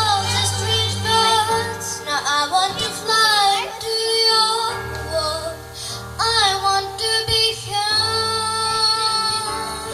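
A young girl singing over an instrumental backing track. Her voice slides between notes in bending runs and then holds a long steady note near the end.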